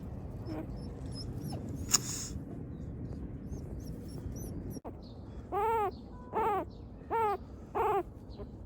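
A newborn puppy crying: four whimpering cries in the second half, each rising and falling in pitch, about one every 0.7 seconds. Before them, small birds chirp faintly over a steady background hiss, with a single sharp click.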